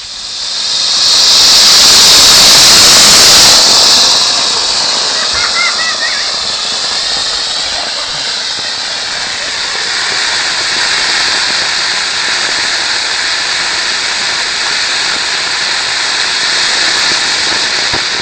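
Homemade sugar rocket motor, a packed-powder mix of sugar and stump-remover potassium nitrate, burning on a static test: a loud, harsh rushing hiss that swells up within the first second, is loudest for the next few seconds, then settles into a steady, slightly weaker roar that keeps going without blowing out.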